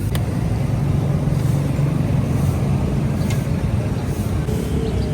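Street traffic: a steady, loud low rumble of engines, with a faint click or two and an engine tone coming in near the end.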